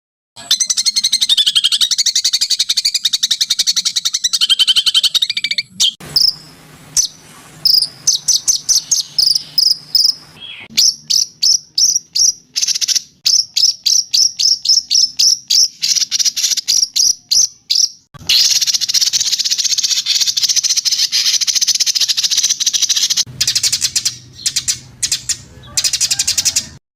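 Songbird calls from a masteran training recording. A long dense high trill is followed by a series of sharp high chirps at about three a second, then another long trill and more chirps, with abrupt cuts between segments.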